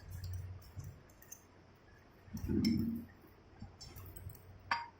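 Light metallic clinks and clicks of small engine parts and tools being handled during engine assembly, with a brief low sound about halfway through and a sharper click near the end.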